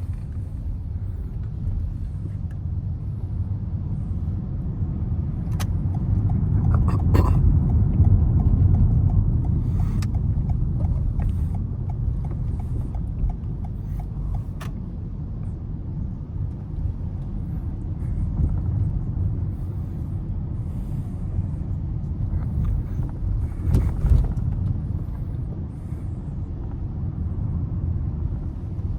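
Car driving in city traffic: a steady low road and engine rumble that swells for a few seconds about a quarter of the way in, with a few sharp clicks and a louder knock near the end.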